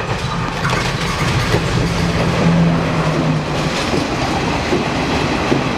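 Blue diesel multiple-unit passenger train running past close by, its wheels clattering steadily over the rail joints. A low engine hum sounds under the rumble and drops away after about three and a half seconds.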